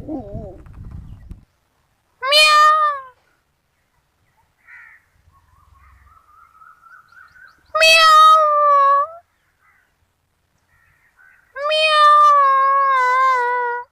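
Kittens meowing: three loud, high-pitched meows a few seconds apart, the last about two seconds long, with a faint rising call before the second.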